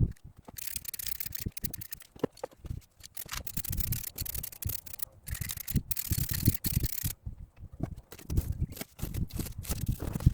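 Hand sanding on a car's wheel-arch panel, the abrasive rasping over body filler in spells of a second or more with short pauses between them, and light knocks from handling.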